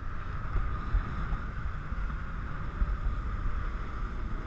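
Wind buffeting an action camera's microphone in flight under a parasail: a gusty low rumble under a steady rushing hiss.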